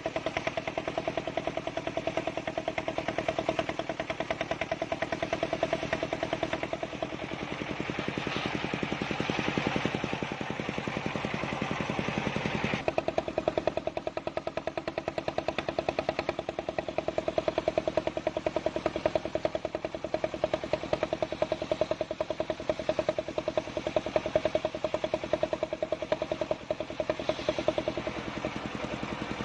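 Engine-driven circular sawmill running steadily, its engine firing in rapid even pulses. A harsher, noisier stretch from about seven to thirteen seconds in is the blade cutting through the log.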